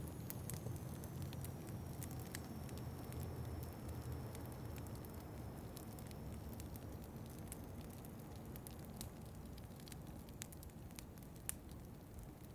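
Wood fire crackling in a fireplace, with irregular sharp pops, over a steady low rumble of wind. A faint high whistle dips and rises again midway.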